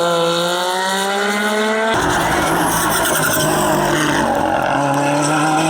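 Race car engine accelerating hard, its pitch rising steadily. About two seconds in the sound changes abruptly to a harsher, noisier mix of engine and tyres, with tyre squeal, and a steady engine note comes back near the end.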